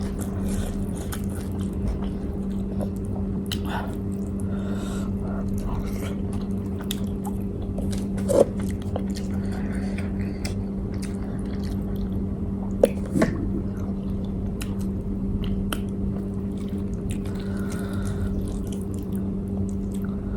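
A person chewing and biting into grilled chicken, with many small wet clicks and a few sharper ones, over a steady low hum.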